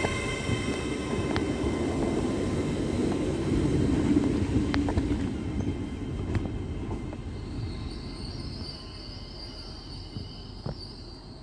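Train rumbling through the station, loudest about four seconds in and then fading away, with a few sharp metallic clicks along the way.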